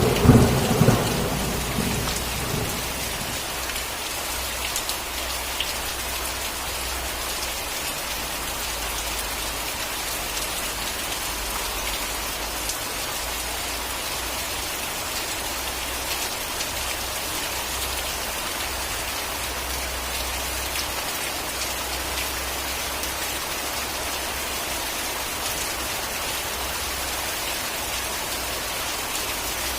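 Steady rain falling, a dense even hiss with scattered drop ticks, while the rumbling tail of a thunderclap dies away over the first two or three seconds.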